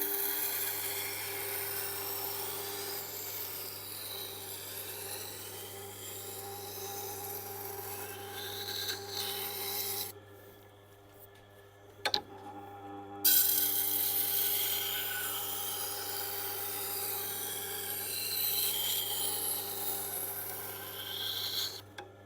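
A Wüsthof kitchen knife's steel edge scraping along the turning SG-250 grindstone of a Tormek T8, in two long passes of about ten seconds each, over the grinder's steady motor hum. Between the passes the scraping stops and there is a single light click. The bevel is being ground with no burr raised yet.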